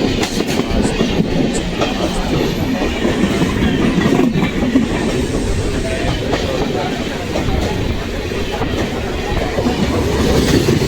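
Mumbai suburban local train running along the track: a steady rumble with scattered clatter from the wheels and carriage.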